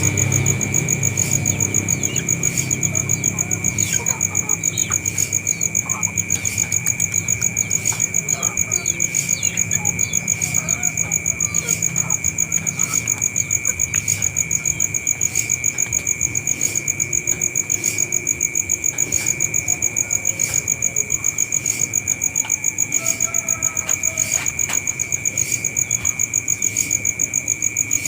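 Insects trilling steadily at two high pitches, with an even pulsing rhythm throughout, typical of crickets in vegetation.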